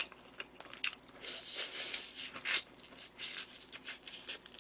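A person chewing and biting food close to the microphone: a dense stretch of crunching about a second in, then scattered smaller mouth clicks.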